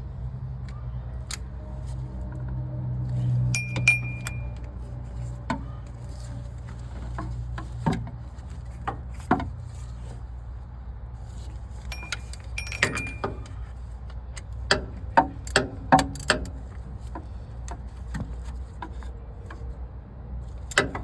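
Hand tools clinking on metal as the bolts of a newly fitted water pump are tightened: scattered sharp clicks and knocks, a few with a brief metallic ring, with a quick cluster of clicks near the end. A low steady hum runs underneath.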